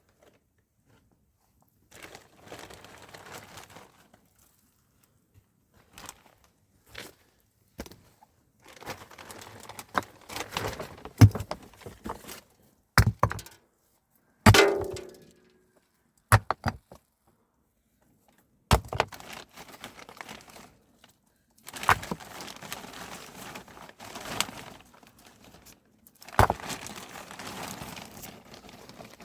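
Scattered knocks and thuds of objects being handled, between stretches of rustling and scraping, with one short ringing clang about halfway through.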